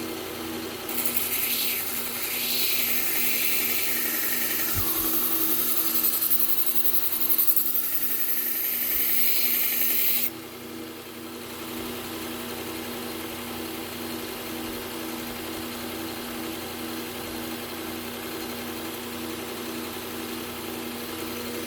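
Belt sharpener's motor running steadily, with a knife blade ground against the fine Trizact abrasive belt to refine an edge that already has a burr: a loud hiss that starts about a second in and cuts off about ten seconds in, after which the motor runs on alone.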